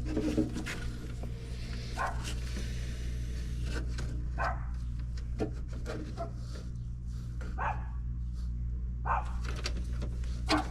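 A dog barking several times, each bark short and separate, over a steady low hum.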